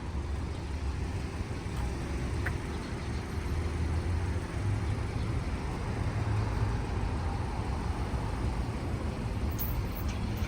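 Steady low rumble of a vehicle in motion, with no change in pitch.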